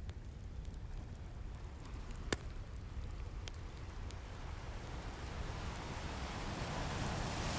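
Crackling wood fire giving a few sharp pops, over the steady low rumble of ocean surf; a wave swells and builds toward the end.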